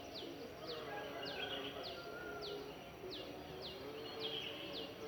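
Birds singing at dawn: one repeats a high note that falls quickly in pitch, about twice a second, over softer chirps and lower calls from other birds.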